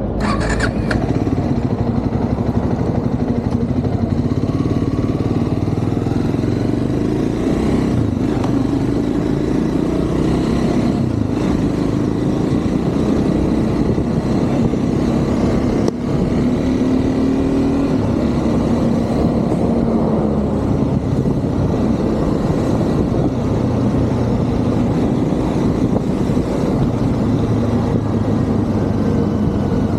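Triumph Scrambler 400 X's single-cylinder engine running on the move, its note rising and falling with the throttle, with one brief drop in loudness near the middle.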